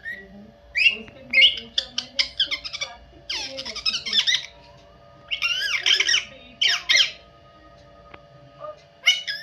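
Pet parrot squawking in a series of loud, shrill calls and quick chattering notes, separated by short pauses.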